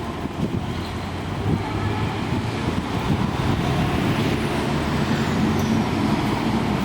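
Strong wind gusting across the microphone, mixed with the steady noise of city street traffic.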